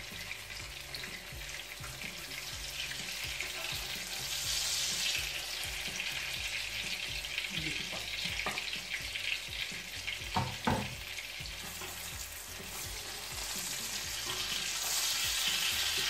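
Eggplant omelette with minced meat frying in oil in a nonstick pan on a moderate heat: a steady sizzle that swells twice, with a few short knocks around the middle.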